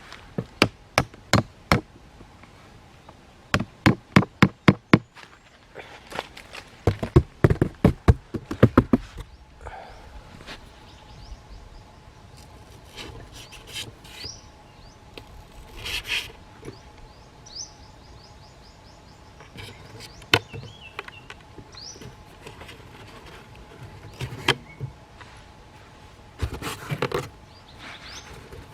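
Quick runs of sharp knocks, several a second, in three bursts over the first nine seconds, then scattered single knocks and taps. Faint short high chirps come and go.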